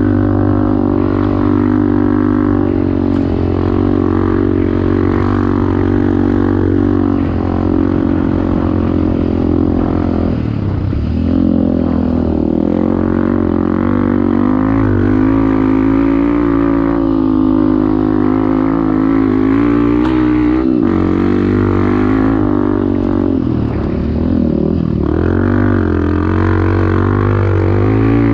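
Off-road motorcycle engine running under riding load. The revs drop and climb back about ten seconds in and again near the end.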